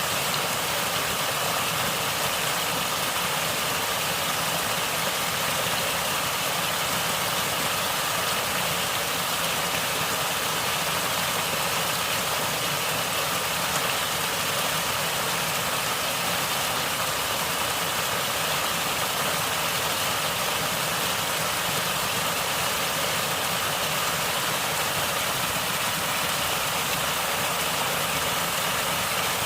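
Natural running water gurgling, a steady unbroken rush with no distinct events.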